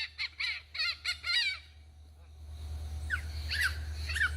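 Chickens calling: a quick run of repeated squawking calls for about a second and a half, a short lull, then a few single calls near the end.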